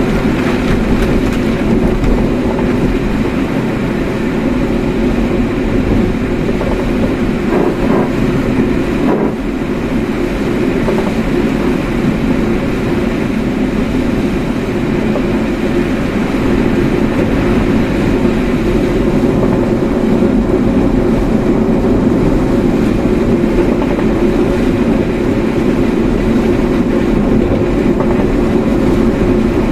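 Steady road and engine noise of a car being driven, a continuous low rumble with no breaks.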